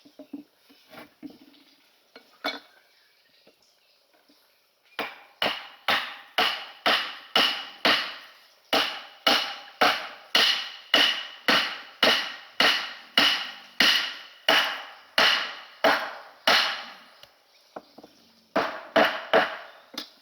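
A hand tool striking wood over and over, about two sharp, ringing blows a second, in a long steady run, then a short pause and a few more blows near the end.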